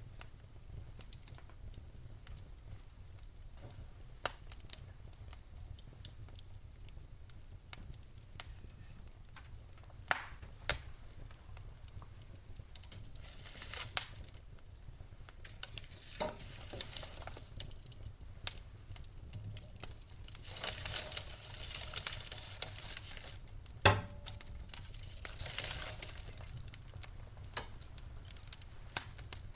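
Wood fire burning in a fireplace: a low steady rumble with scattered sharp crackles and pops, several stretches of louder hissing, and one loud pop a little past two-thirds of the way through.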